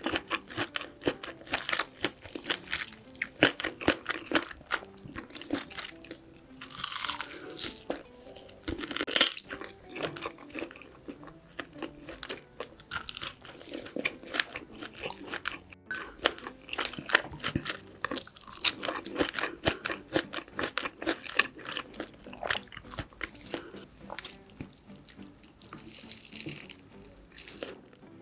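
Close-miked chewing and crunching of braised pork back ribs and kimchi: a dense run of small wet clicks and crunches, with two longer hissing swishes in the first third.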